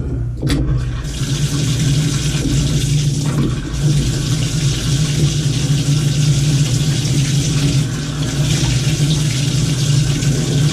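Water rushing hard and steadily through an open Moen tub and shower faucet valve, starting about a second in, over a steady low hum.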